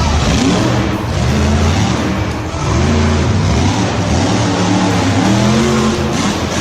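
Vehicle engines revving, their pitch rising and falling over and over.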